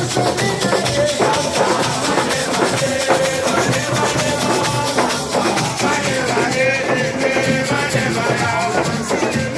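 Live band music: fast, dense percussion with shakers and drums under a wavering melodic line.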